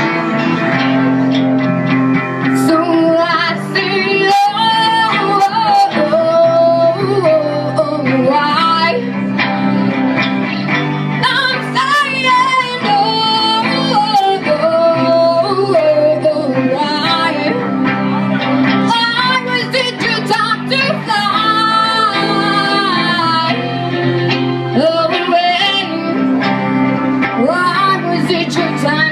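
Live band music: a sung melody without clear words over guitar and sustained low notes.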